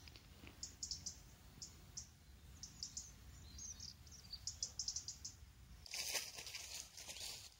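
Small birds chirping: short high calls, singly and in quick runs, over a low steady rumble. About six seconds in, a louder rustling noise takes over.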